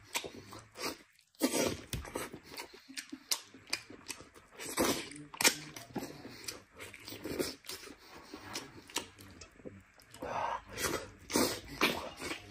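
Close-up chewing and biting: wet smacks and clicks of a mouth gnawing saucy sheep leg meat off the bone, in an irregular run with a short pause about a second in.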